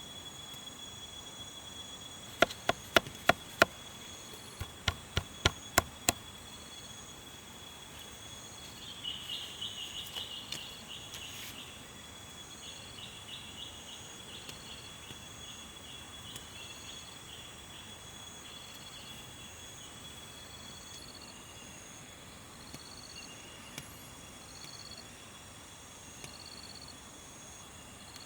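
Insects chirping and trilling in steady repeating pulses, with two quick runs of sharp knocks, about five and then six, a few seconds in.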